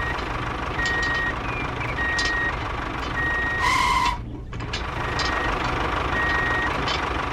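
Vehicle reversing alarm beeping steadily, about one half-second beep a second, over a continuous engine rumble. A louder, lower tone sounds twice, about four seconds apart.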